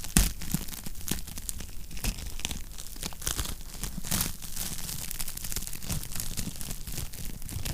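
Wood fire crackling and popping in a fireplace: irregular sharp snaps over a steady low rumble, with one louder pop right at the start.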